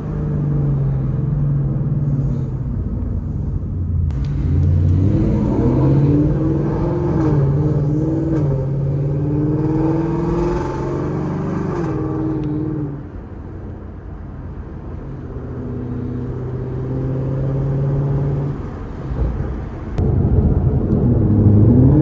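Ford Mustang GT's V8 through Stainless Power headers and a Ford Performance by Borla cat-back exhaust, on the move. The engine note climbs under acceleration in the first half, drops and quietens as the throttle is lifted about halfway through, then builds again, with a sharp rise near the end.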